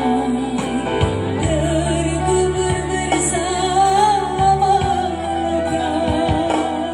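Live band music with a singing voice carrying a wavering melody over sustained chords and a steady drum beat.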